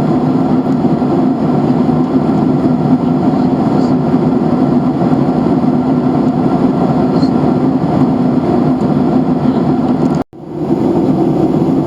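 Steady cabin noise of a Boeing 737-800 in flight: an even rush of airflow and engine noise with a low hum. About ten seconds in it cuts out abruptly for a moment, then fades back in.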